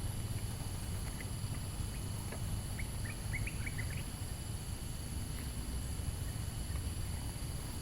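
Steady low outdoor ambience with a few faint bird chirps between about three and four seconds in.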